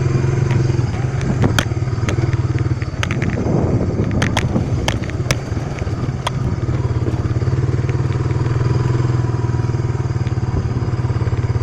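Small off-road vehicle engine running steadily close to the microphone, with its drone dipping briefly twice, and sharp clattering knocks of the machine going over bumps in the first half.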